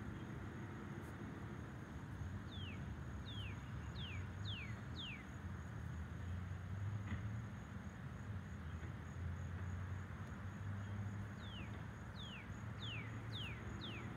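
A bird singing two phrases of five quick whistled notes, each falling in pitch, one a couple of seconds in and one near the end, over a steady low background rumble.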